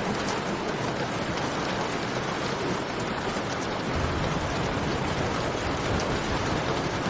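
Steady heavy rain falling in a cave, with faint campfire crackles ticking over it. A low rumble comes in a little past halfway.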